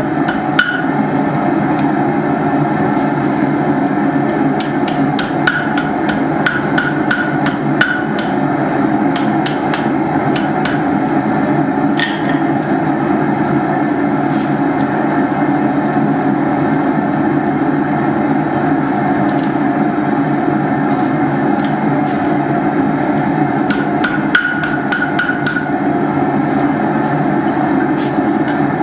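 Hammer blows on steel at the anvil while forging iron hooks: quick runs of sharp strikes, some ringing briefly, in a few bursts separated by pauses. A steady rushing noise runs underneath throughout.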